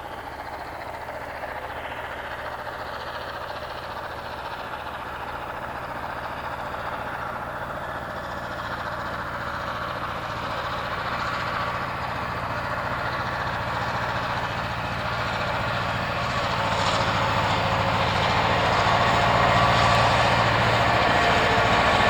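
Train approaching, its running sound growing steadily louder.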